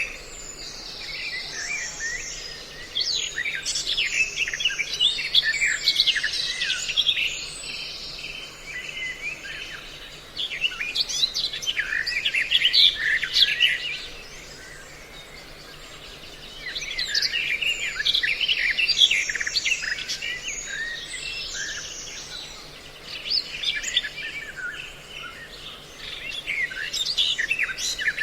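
A mixed recording of songbird calls used as a trapping lure: bouts of rapid, high chirping and trilling from several birds, broken by short lulls about ten, fourteen and twenty-two seconds in. A faint steady low hum runs underneath.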